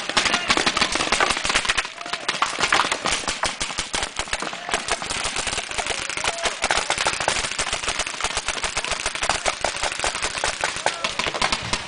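Paintball markers firing in rapid, continuous volleys: many sharp pops a second, overlapping from more than one gun.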